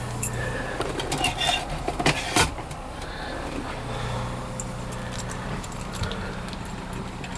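Clicks and light rattles of things being handled inside a car's cabin, over a steady low hum.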